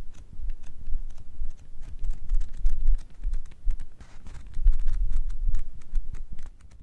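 Pages of a paperback book riffled rapidly, a dense run of quick papery flicks with a brief lull about halfway through.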